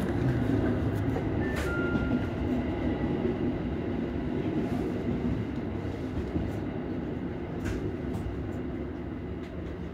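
JR Central 313 series electric train running at speed, heard from behind the driver's cab: steady running noise of wheels on rail that slowly gets quieter. A short two-note electronic tone sounds about a second and a half in.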